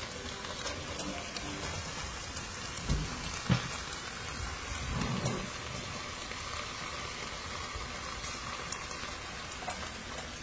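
Shrimp sizzling on high heat in an enamelled cast-iron pan, the liquid in the pan cooking off, a steady hiss with scattered small pops. A few knocks about three and five seconds in.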